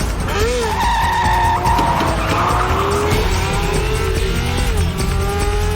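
Film car-chase sound: car tyres squealing and skidding in several long, wavering screeches, with engines revving, over music with a heavy low rumble.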